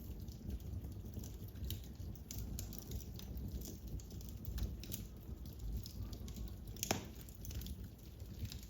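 Fire crackling in a fireplace: irregular small pops and snaps over a low steady rumble, with one sharper pop about seven seconds in.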